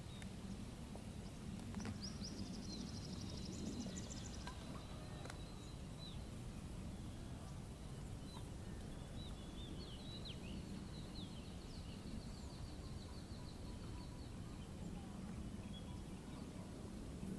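Outdoor nature ambience: small birds singing faintly, with a rapid high trill about two seconds in and another around ten seconds, over a steady low rumble.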